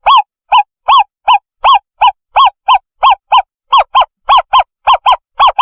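Owlet call played as a bird-trapping lure: a series of short, arched hoots, each rising and falling in pitch, about three a second and coming faster toward the end.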